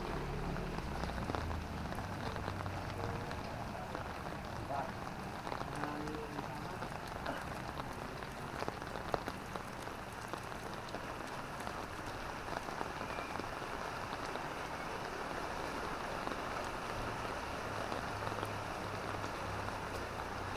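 Light drizzling rain falling, with many small drops pattering steadily on surfaces. A low hum sits under it at the start and again near the end.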